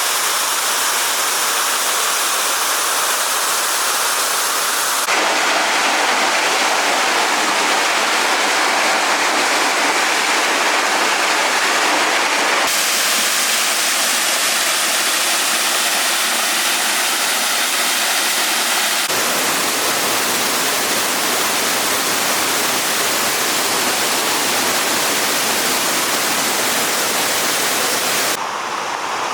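Waterfalls rushing: a loud, steady roar of falling water that changes character abruptly three or four times as one fall gives way to the next.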